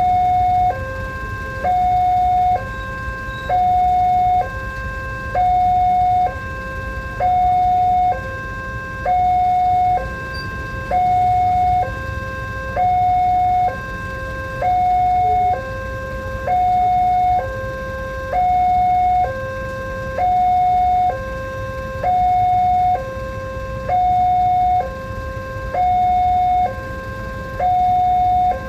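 Electronic level-crossing warning alarm at a railway crossing sounding its two-tone call: a louder higher tone and a lower tone alternate, each held just under a second, repeating steadily. It is the signal that a train is approaching and the barriers are closing. A steady low rumble runs underneath.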